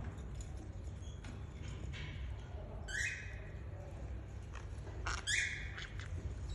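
Pet conure parrot giving two short squawking calls, a couple of seconds apart, over a low steady hum.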